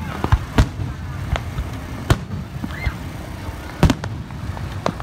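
Aerial fireworks bursting: a run of sharp bangs, about six in five seconds, over a low rumble, the loudest a little under four seconds in.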